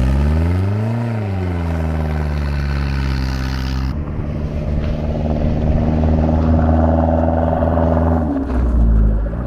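Sidecar motorcycle's Toyota Camry car engine revving up and falling back about a second in, then running at a steady pitch. The sound changes abruptly about four seconds in, and the engine note shifts again near the end.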